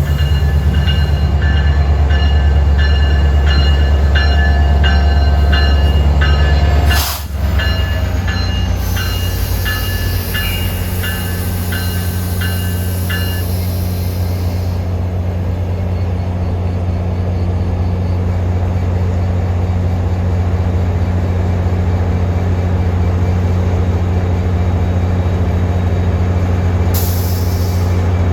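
A train passing with a heavy, steady low rumble. Over the first half, a bell rings about twice a second, then stops.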